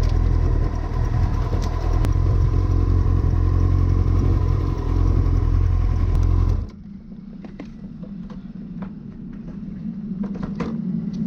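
A motorcycle being ridden, with heavy wind rumble on the microphone. About two thirds of the way through, the sound drops suddenly to a much quieter steady hum with a few light clicks.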